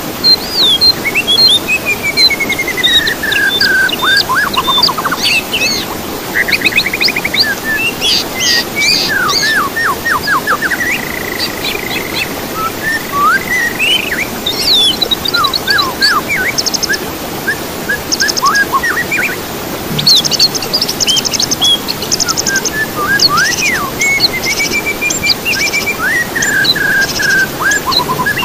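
Songbird song used as a 'therapy' or masteran track for cage birds, meant to set silent birds singing. It is a continuous, varied stream of rising and falling whistles, quick trills and rapid rattling phrases.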